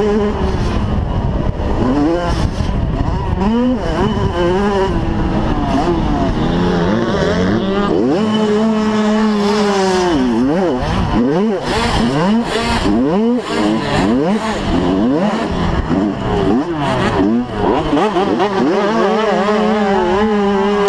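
Several 85cc two-stroke motocross bikes racing, their engines revving up and dropping back over and over as the riders shift gears and throttle on and off, the notes overlapping.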